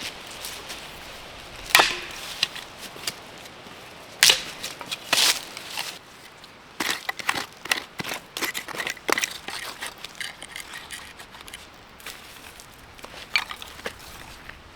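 Dry dead branches being snapped and broken up for fire kindling: a series of sharp woody cracks, the loudest about two and four seconds in, with a quick flurry of smaller snaps in the middle.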